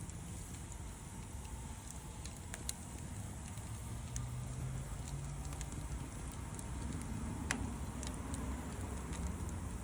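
Wood fire burning with a handful of sharp crackling pops over a low steady rumble.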